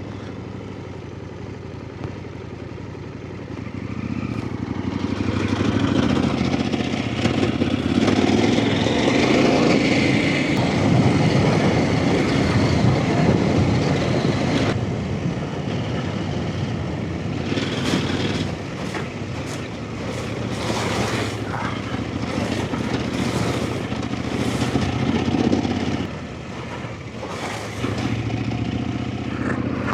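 Off-road motorcycle engine running under varying throttle on a trail. It picks up a few seconds in, eases off just before the end and comes back on.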